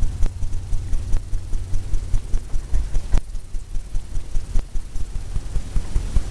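Fan brush tapped repeatedly against a stretched canvas: a quick run of soft, low thumps, several a second, with a few sharper clicks among them.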